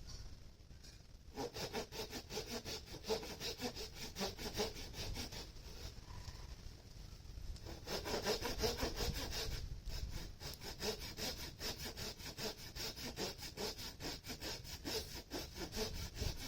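Wood being sawn by hand: a quick, even run of back-and-forth saw strokes, with short breaks about a second in and around ten seconds in.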